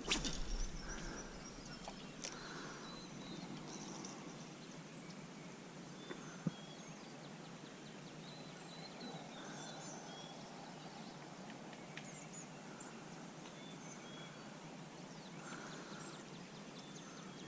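Faint outdoor ambience by a creek with scattered short bird chirps and a few soft, more distant calls. A single sharp click about six and a half seconds in.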